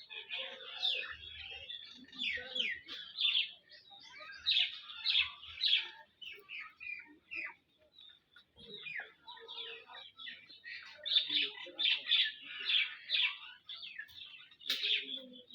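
Birds chirping: many short, quick falling chirps in busy runs, thinning out for a couple of seconds about halfway through.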